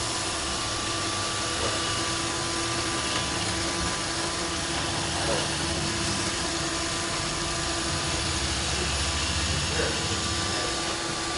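Vacuum cleaner motor running steadily, a constant whir with a steady hum.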